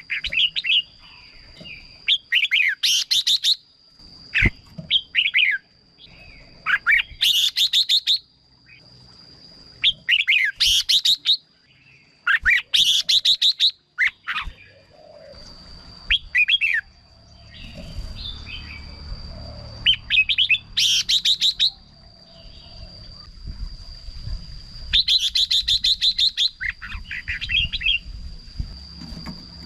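Red-whiskered bulbul singing short, loud warbled phrases, one about every two to three seconds, over a faint steady high tone.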